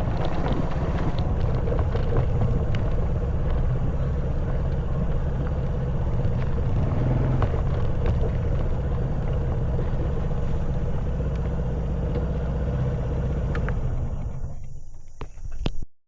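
Honda Wave 110cc motorcycle's single-cylinder engine running steadily under way on a rough stone forest track, with scattered knocks from the road. Near the end it fades away and cuts out to silence.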